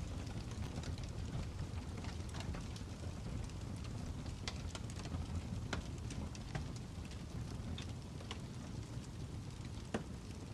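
Fire crackling: irregular sharp pops and snaps over a steady low rumble, with one stronger pop near the end.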